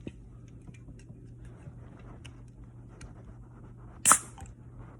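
Faint clicks of a Four Loko aluminium can being handled. About four seconds in, a sharp crack with a short hiss as the pull tab breaks the seal on the carbonated drink.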